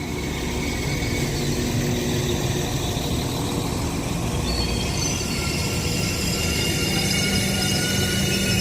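Transport for Wales Class 197 diesel multiple unit pulling into the station: a steady rumble from the train that grows slightly louder. From about halfway through come thin, high squeals as the train slows, and a lower held tone joins near the end.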